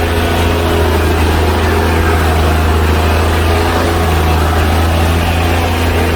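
Monster truck's engine running steadily with a low drone, heard from on board.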